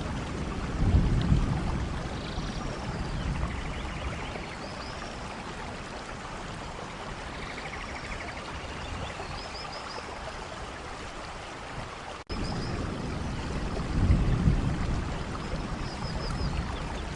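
Steady rain falling in a rainforest, with small birds chirping in short trills over it and low rumbling swells about a second in and again near the end. A brief dropout about two-thirds through marks where the recording loops.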